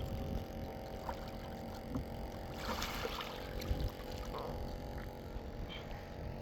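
Steady low rumble of a small fishing boat sitting on the water, with a faint steady hum, a short rushing noise about three seconds in, and a few light knocks.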